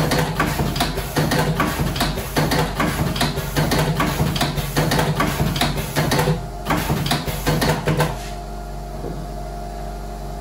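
Electric slim cigarette rolling machine running with a rapid mechanical clacking, about three strokes a second, over a steady motor hum. About eight seconds in, the clacking stops and only the motor hum carries on.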